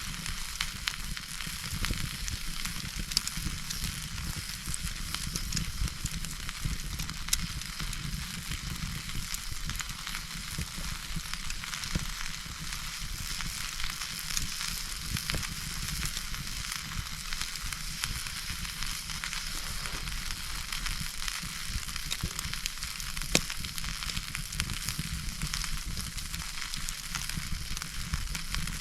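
Wood campfire burning, with a steady hiss and frequent small crackles and a few louder pops.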